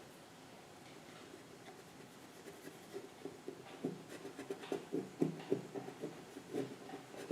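Pencil scratching on paper in short, irregular strokes that begin about three seconds in.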